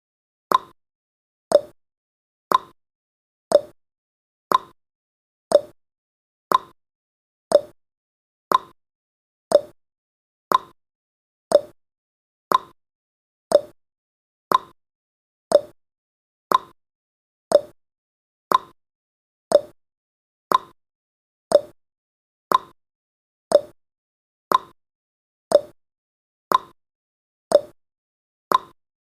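A countdown timer's clock-tick sound effect: short, sharp ticks once a second, alternating between a higher and a lower pitch like a tick-tock.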